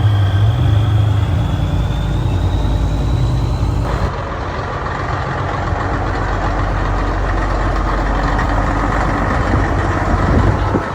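Vintage trucks' engines running. For the first four seconds a deep engine note carries a thin high whine that dips and then climbs. The sound then changes abruptly to a rougher, noisier engine.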